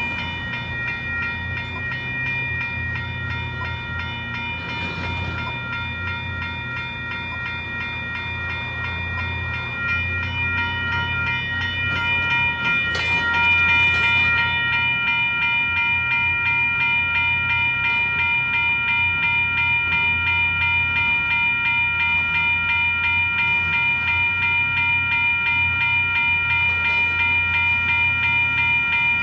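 Western-Cullen-Hayes electronic level-crossing bells ringing steadily, a repeated high chime, over a low rumble that grows louder from about ten seconds in as a train approaches.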